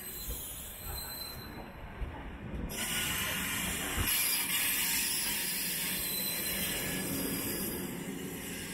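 Sleeper-train passenger coaches rolling slowly past on the tracks: a steady rumble of wheels on rail with a hiss that swells about three seconds in, and a couple of dull knocks.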